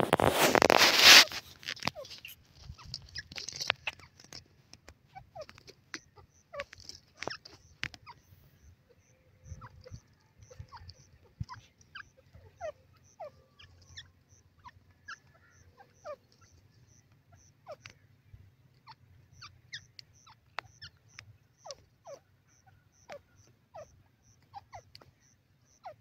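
Birds chirping: short, soft, downslurred notes scattered irregularly, with a faint high note repeating evenly a little more than once a second and a low steady hum beneath. A loud rushing noise fills the first second or so.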